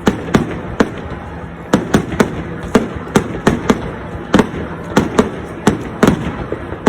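Fireworks going off in quick, irregular succession: sharp bangs about three a second over a continuous background of rumble and crackle.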